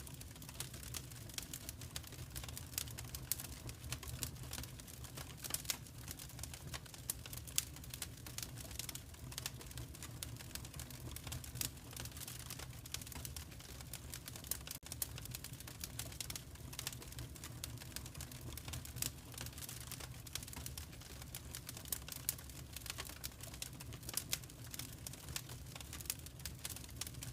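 Fireplace fire crackling, with many irregular sharp pops and snaps over a steady low rumble.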